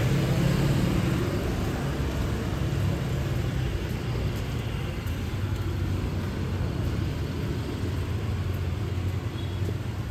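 Street traffic: a vehicle engine rumbling close by, loudest in the first second and slowly fading away, over the steady hum of city traffic.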